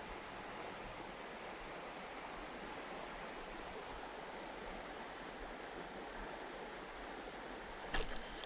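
Steady hiss of creek water running, with a couple of sharp clicks near the end.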